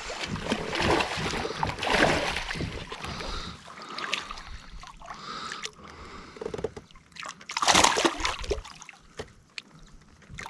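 Water splashing and sloshing at a kayak's side as a hooked bass is brought up out of the weeds, with a louder splash about eight seconds in.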